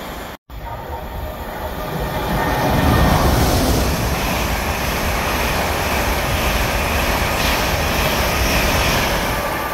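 Express passenger train of LNER Mark 4 coaches passing the platform at speed: a steady roar of wheels on rail and rushing air with a deep rumble, loudest about three seconds in. A brief dropout just under half a second in.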